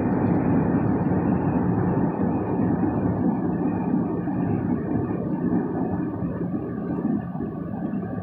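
Steady road and engine noise inside a car cruising on a highway, a low even drone that gets a little quieter over the last few seconds.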